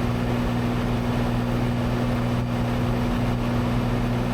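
Cessna 182's six-cylinder piston engine and propeller, heard from inside the cabin as a steady, even drone with a low hum, in climb shortly after takeoff.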